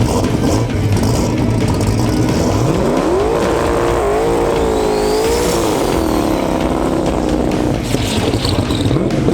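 Drag race car engine at full throttle on a pass, loud throughout. Its pitch climbs steeply about three seconds in, holds high and wavering for several seconds, then drops away near the end before another climb begins.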